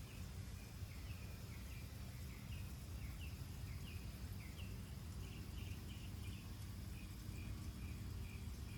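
A small bird calling over and over in short chirps, a couple a second, against a steady low outdoor rumble.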